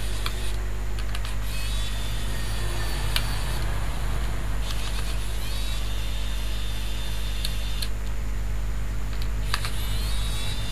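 A steady low hum with fan-like noise throughout, and a few light clicks and short rising high whines.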